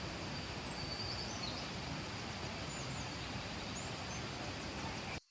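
Steady rushing of a flowing river, with a few faint bird chirps over it. The sound cuts off suddenly near the end.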